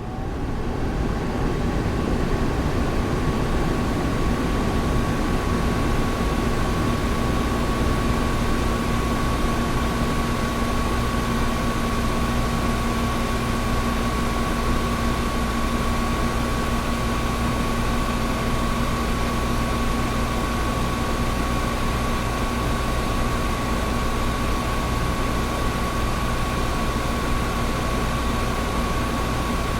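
Air conditioner running steadily: an even rush of air over a low hum, with a thin steady whine and a fainter lower tone. The sound fades up over the first second.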